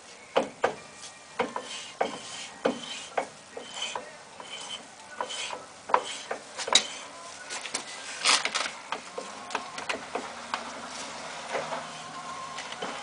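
Irregular clinks and knocks of hand tools and metal parts being handled, roughly two a second at times, some with a short ring.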